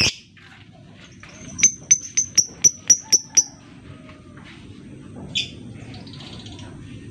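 Lovebird giving a quick run of about eight sharp, high clicking chirps (the 'ngetik' ticking call), about four or five a second, then one short call a couple of seconds later.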